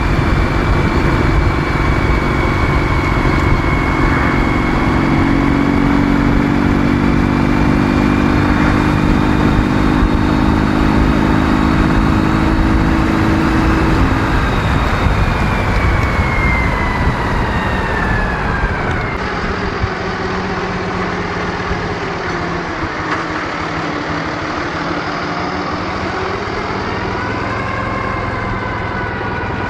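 Ural motorcycle's 650 cc flat-twin engine running under way at steady revs; a little past halfway the engine note falls and the sound gets somewhat quieter, then runs on at lower, wavering revs as the bike slows.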